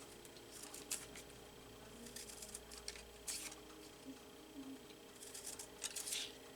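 Finger-hole scissors cutting paper: several separate crisp snips with paper rustling between them.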